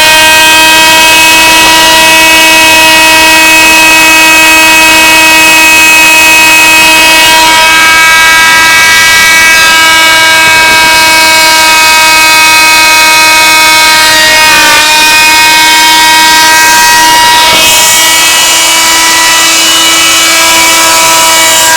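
Homemade plywood CNC router running: a loud, steady whine of several pitched tones, with a brief dip in pitch about 15 seconds in and a shift a few seconds later.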